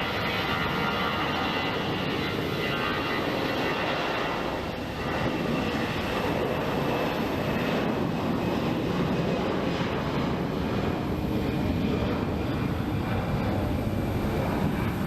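Jet airliner's engines running at takeoff power: a steady rushing noise with faint whining tones, dipping briefly about five seconds in.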